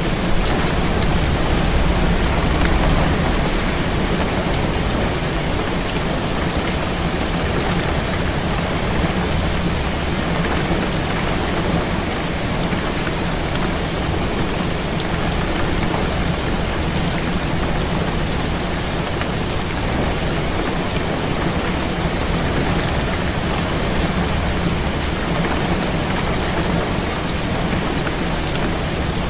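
Heavy rain beating steadily on a window, with wind and a low rumble underneath, a little louder in the first few seconds.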